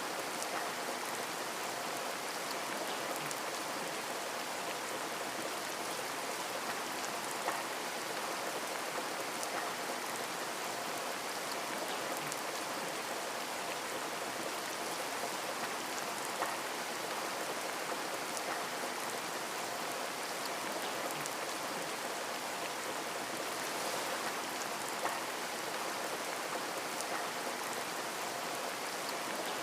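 Steady rain falling on a window, a constant hiss with scattered drop taps and a few louder ticks.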